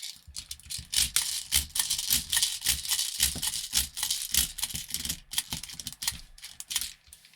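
Airsoft BBs (0.40 g) being loaded by hand into an airsoft rifle magazine: rapid, irregular plastic clicking and rattling as the BBs are pushed into the feed, with a short pause about five seconds in.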